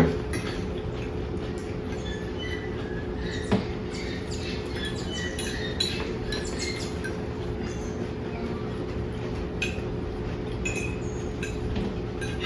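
Light clinks and clicks of dishes and cutlery at a meal over a steady low hum, with faint short high chirps here and there.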